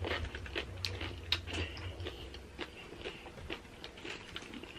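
Close-miked chewing of a mouthful of loaded nacho salad: quick crunchy clicks of tortilla chips being bitten down, thinning out and getting fainter after the first couple of seconds.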